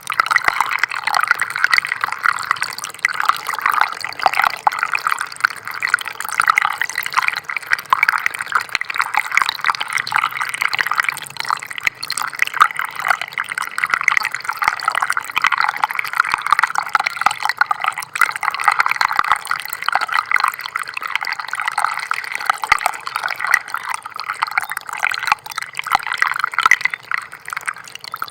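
Small stream of water trickling and babbling steadily, a dense, even patter of tiny splashes.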